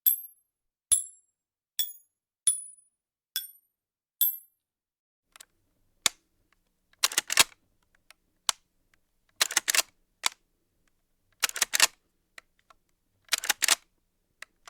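Short, bright metallic clinks, each ringing briefly, about one a second and fading over the first few seconds. After a short gap come clusters of two or three sharp mechanical clicks about every two seconds, typical of gun-action handling.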